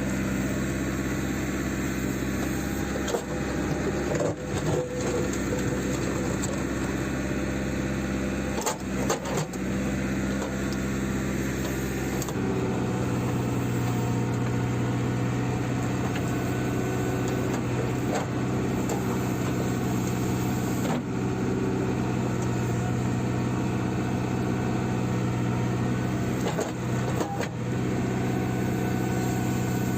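JCB 3CX backhoe loader's diesel engine running steadily, growing louder about twelve seconds in, with a few short knocks scattered through.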